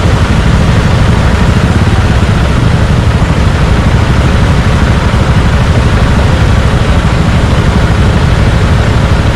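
Suzuki Gixxer 155's single-cylinder engine running steadily through an aftermarket Yoshimura exhaust, a loud, even low rumble with no revving.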